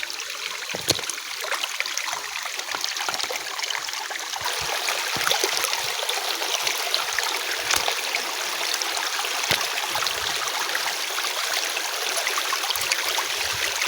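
Clear jungle stream running over rocks, a steady rush and trickle of flowing water.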